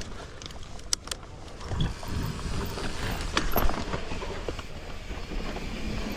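Low rumbling noise of wind buffeting the microphone while moving outdoors, with a couple of sharp clicks about a second in and a few knocks around three and a half seconds in.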